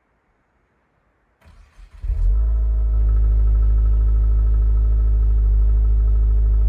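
Subaru WRX's flat-four engine cranked and catching about two seconds in, then running at a steady idle: a cold start at well below freezing.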